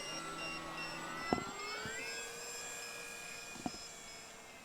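Electric motor and propeller of a small RC plane whining, rising in pitch about a second and a half in and then holding steady. A regular high beeping runs alongside, taken for a low-battery warning, and stops near the end.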